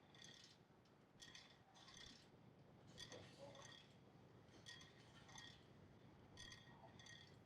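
Faint ringing metallic clinks of a lat pulldown machine's weight stack, repeating through the set, often in pairs, as the plates lift and settle with each rep.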